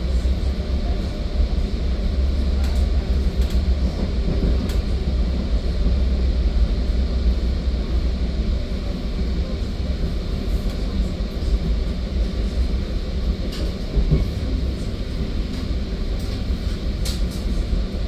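Steady rumble of a Metra commuter train heard from inside a moving passenger car, with a few faint clicks near the end.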